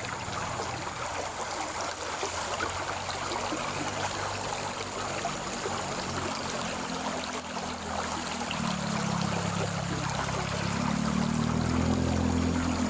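Stream water running and trickling steadily. A low droning hum builds and grows louder over the last few seconds.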